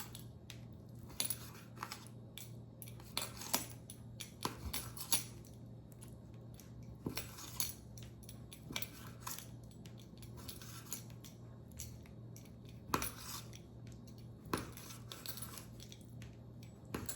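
Kitchen knife cutting raw chicken tenders into small pieces, the blade knocking on a cutting board at irregular intervals, over a low steady hum.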